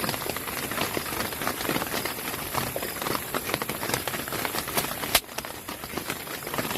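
Rain pattering in dense, irregular drops, with one sharper tap about five seconds in.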